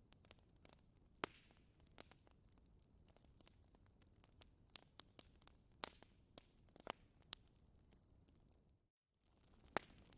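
Wood fire crackling softly: irregular sharp pops and snaps, a few louder than the rest, over a faint hiss, with a brief gap in the sound about nine seconds in.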